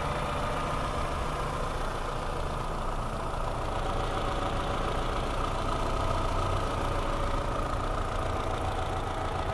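2018 Toyota C-HR's 2.0-litre four-cylinder engine idling steadily under the open hood, a low hum with a steady whine over it.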